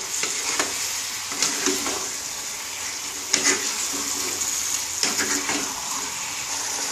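Marinated chicken in masala sizzling in a nonstick kadai, with a wooden spatula scraping and stirring against the pan every second or so. The chicken is being stir-fried in its own marinade liquid until the liquid dries off.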